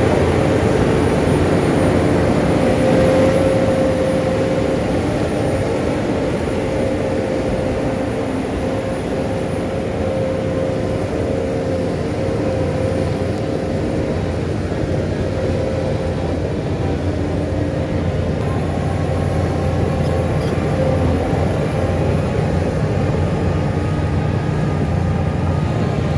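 Heavy earthmoving machinery's diesel engine running steadily, with a steady whine that fades about halfway through.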